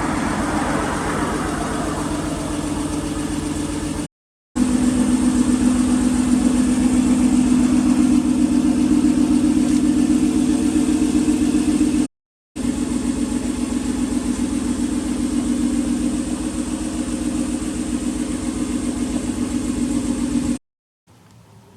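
Honda NSX NA1's 3.0-litre V6 running at a steady speed through an aftermarket muffler. The sound is cut into three stretches by short edit breaks of silence.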